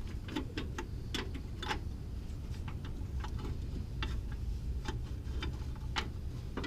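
Ratchet wrench clicking in short, uneven strokes while a bolt on a Chevy S10's upper control arm is worked, with a low steady rumble underneath.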